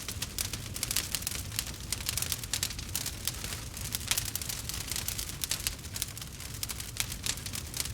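Campfire crackling: a dense run of irregular pops and snaps over a low, steady rumble of burning.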